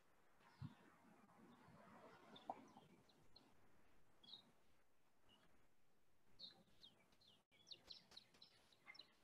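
Near silence, with faint, scattered high bird chirps that come more often near the end.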